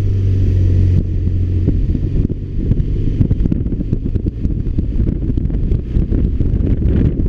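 BMW R 1200 RT motorcycle's boxer-twin engine running on the road, with heavy wind buffeting on the microphone. A steady low engine hum is clear for about the first second, then mostly gives way to rough wind rumble.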